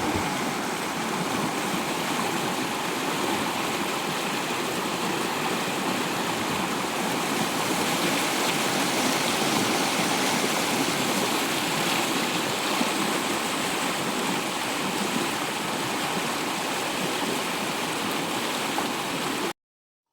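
Water rushing steadily along an irrigation canal, a continuous even rush that cuts off abruptly near the end.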